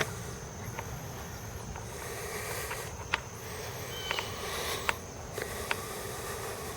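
Outdoor background: a steady high insect trill over a low, even rumble, with a few sharp clicks.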